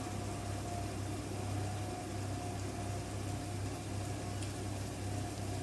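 Steady low hum with a thin steady whine over a faint hiss from a running kitchen appliance while food cooks in the pan.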